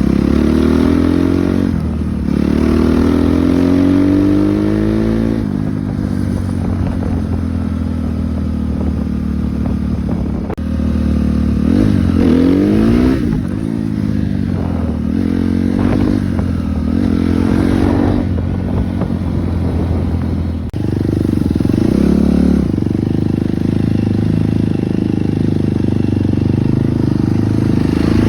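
Suzuki RM-Z250 dirt bike's four-stroke single-cylinder engine being ridden, its revs rising in repeated pulls as it accelerates up through the gears. It settles to a steadier running note for the last third.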